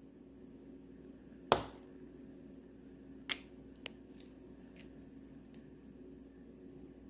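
Knife chopping a bar of wax melt: one sharp knock about a second and a half in, a softer knock a couple of seconds later, and a few faint ticks, over a low steady hum.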